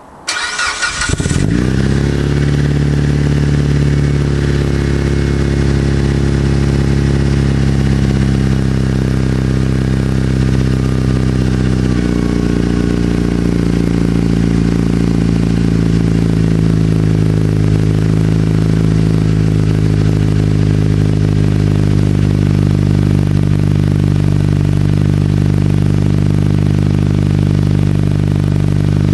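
Mitsubishi Evo 8 MR's turbocharged 4G63 four-cylinder engine, fitted with a Milltek exhaust and C-Tech exhaust manifold, starting up: a short crank about a second in, the engine catches, flares briefly, then settles into a steady idle. Near the middle the idle steps down slightly.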